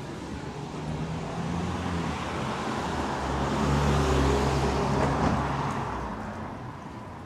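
A motor vehicle passing close by on a city street: engine hum and tyre noise grow louder, peak about four seconds in, then fade away.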